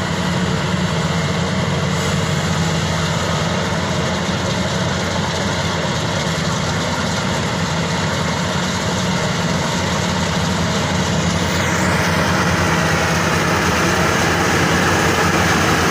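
Maxxi Bimo 102 SS combine harvester running steadily, its engine hum low and even. About twelve seconds in, a higher rushing noise grows louder.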